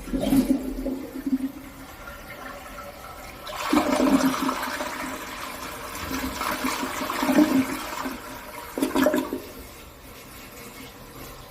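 An American Standard toilet flushing: water rushing through the bowl, swelling sharply about three and a half seconds in and staying loud for several seconds. It then drops to a quieter steady hiss near the end.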